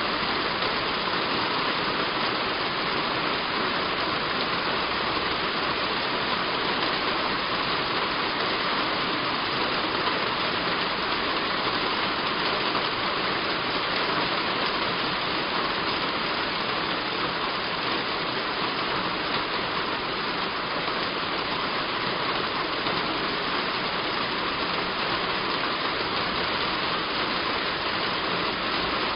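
Heavy rain falling steadily on a roof: an even, unbroken hiss.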